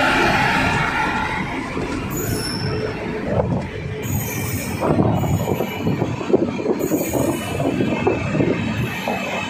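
An Indian Railways express train's LHB passenger coaches roll past close by. It is a steady rumble of wheels on rails, with irregular knocks and clatter that grow busier about four seconds in.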